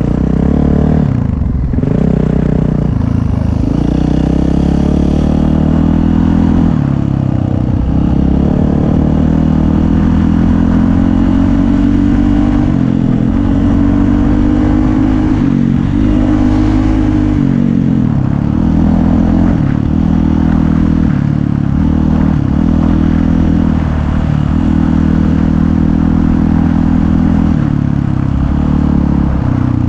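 Dirt bike engine running under changing throttle while riding, its pitch rising and falling repeatedly as it revs up and eases off.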